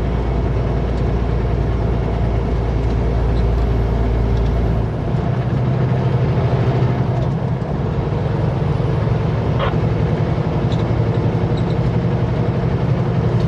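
Kenworth W900L truck's diesel engine and road noise, a steady loud drone while cruising at highway speed. About five seconds in, the engine note changes as the deepest rumble drops away and a slightly higher drone carries on.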